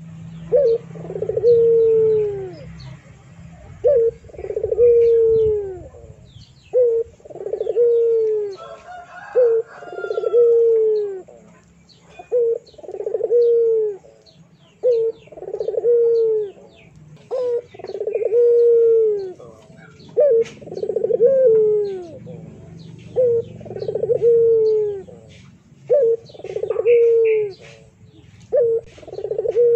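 A dove-like bird cooing: a short note followed by a longer falling note, repeated every two to three seconds, with faint chirps of other birds.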